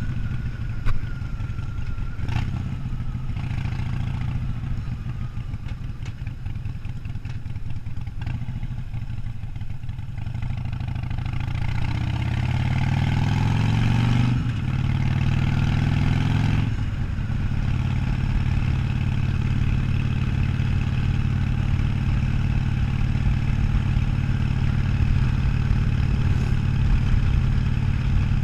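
Harley-Davidson Sportster 1200's air-cooled V-twin engine running under way. About 12 seconds in the engine note climbs as the bike accelerates, drops twice, a few seconds apart, and then settles into a steady, slightly louder cruise.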